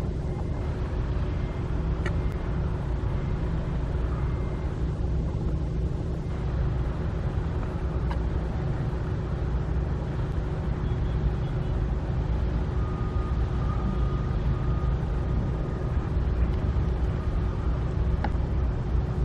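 Steady low outdoor rumble with a constant low hum running through it and a few faint clicks.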